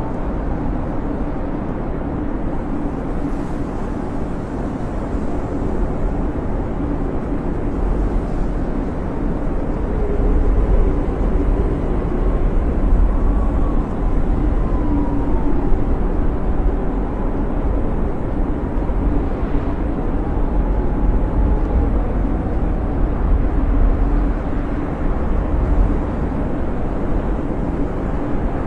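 Snowstorm wind blowing steadily with a low rumble, with faint whistling howls that rise and fall in pitch.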